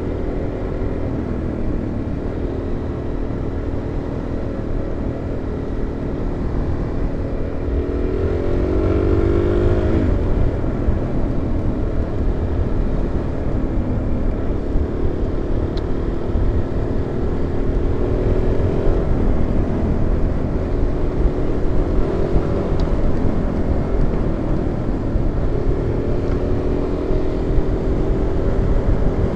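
Single-cylinder supermoto motorcycle engine running at road speed, heard through a helmet-mounted microphone with a heavy wind rumble. The engine pitch climbs and then drops about a third of the way in, as on a rev up and gear change, and shifts again near the end.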